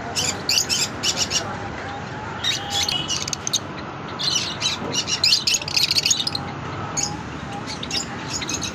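Several small birds chirping and twittering in quick, high bursts that come and go in clusters, over a steady low background rumble.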